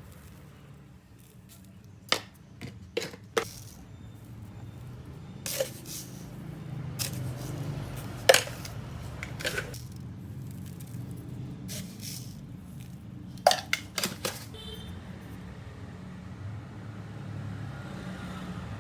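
Kitchen utensils and cookware knocking and clinking: about ten sharp strikes in irregular clusters over a steady low hum.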